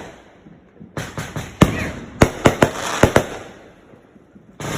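Fireworks going off: a rapid run of sharp bangs and crackling starting about a second in and dying away after about three seconds, then another bang near the end.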